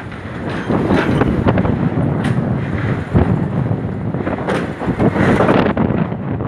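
Wind buffeting the microphone at an open window of a moving train, in uneven gusts over the train's steady running noise.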